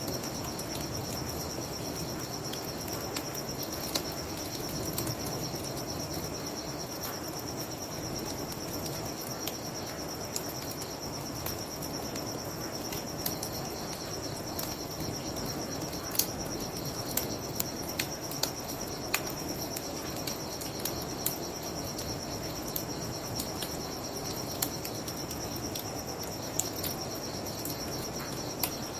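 Crickets chirping in a steady high trill, with the sharp pops and crackles of a wood bonfire scattered through, over a low steady rushing.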